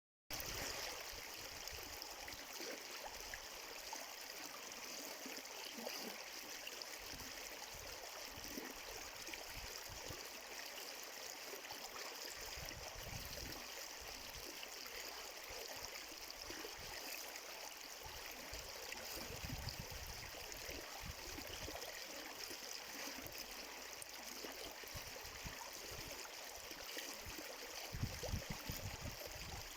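Flowing water, a stream running with a steady rush, with a few low bumps near the end.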